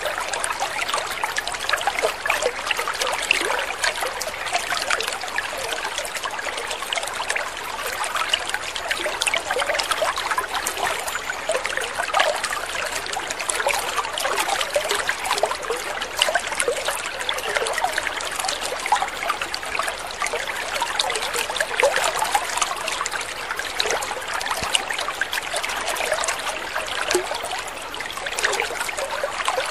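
Water trickling steadily, a continuous babble of small splashes and droplets with no change in level.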